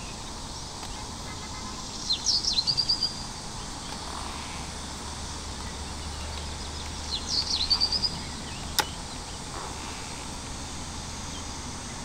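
Outdoor ambience with a bird singing the same short phrase twice, a few sharp falling notes ending in a quick high trill, about two seconds in and again about seven seconds in. A single sharp click comes near the end.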